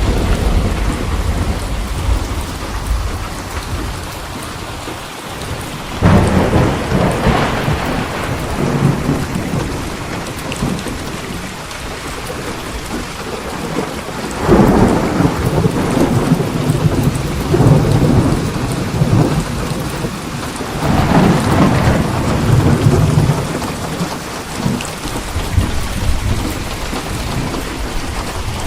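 Steady heavy rain with rolling thunder. A low rumble is dying away at the start, and three more thunderclaps break in suddenly, about six, fourteen and twenty-one seconds in, each rolling on for several seconds.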